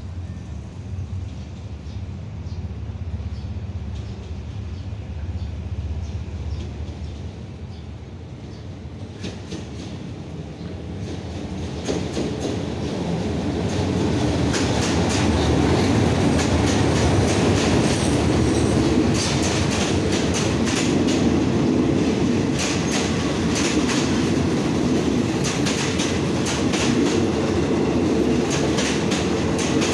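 Diesel-hauled passenger train coming in along the platform. At first there is a low diesel engine rumble, which swells about a third of the way in as the locomotive draws level. Then the carriages roll past, their wheels clacking steadily over the rail joints, with some high wheel squeal.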